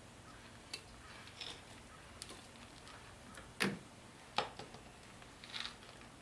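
A handful of light knocks and clicks from hand tools on metal parts, spaced irregularly, the loudest about three and a half seconds in.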